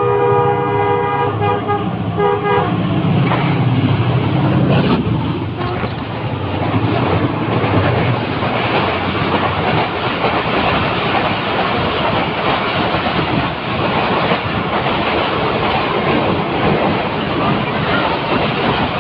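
A train horn sounds a steady chord of several tones and cuts off about two and a half seconds in. After it comes the loud, steady running noise of the moving train.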